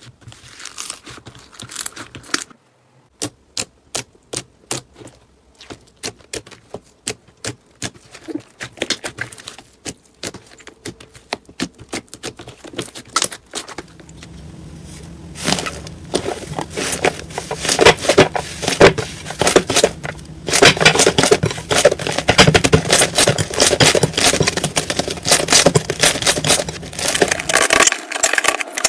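Slime being handled close to the microphone: first a run of separate sharp pops and clicks, then from about halfway a dense, continuous crackling.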